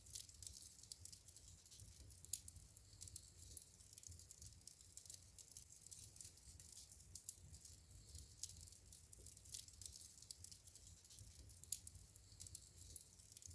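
Wood burning in a fireplace: faint, irregular crackles and small pops over a low, steady rumble.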